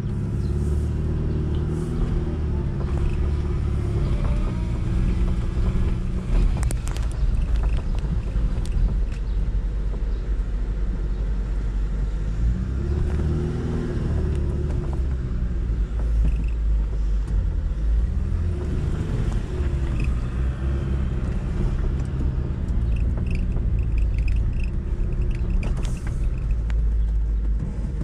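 1991 Fiat Panda 4x4's carburetted four-cylinder engine running, heard from inside the cabin, its pitch rising and falling a few times. It is running on a newly adjusted carburettor after a flooded start.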